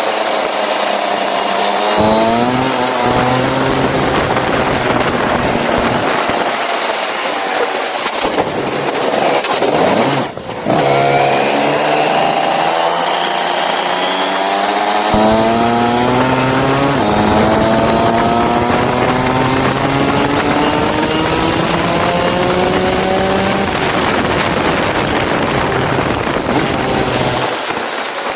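Go-kart engine revving up as the kart accelerates, its pitch climbing steadily, then dropping briefly about ten seconds in before climbing again through a long pull, over a steady hiss.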